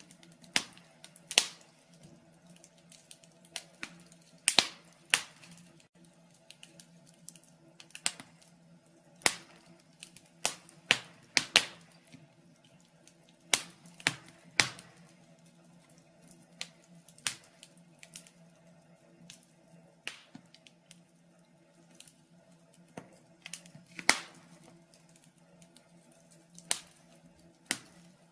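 Wood fire in a fireplace crackling, with irregular sharp pops, a few much louder than the rest, over a faint steady hum.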